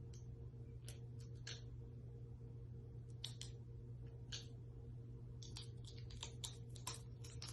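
Faint, light clicks and taps at irregular intervals over a low steady hum.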